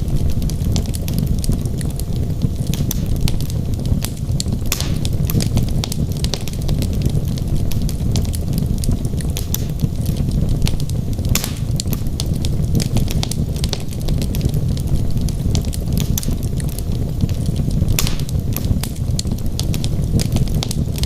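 Wood logs burning in a fireplace: a steady low rumble of flame with many small crackles and pops, a few sharper pops standing out.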